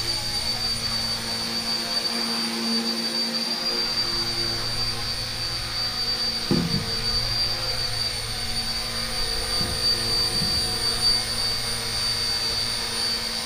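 Small electric RC helicopter, an RC Era C032 UH-1 Huey, taking off: its motors and rotors run at a steady high-pitched whine after spooling up.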